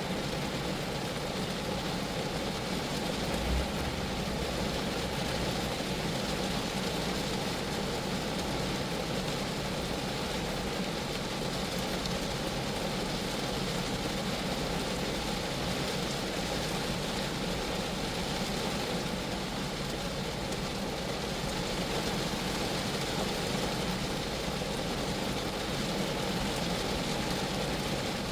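Steady rain falling on a Geo Metro's roof and body, an even hiss with a low drumming underneath. A brief low thump comes about three and a half seconds in.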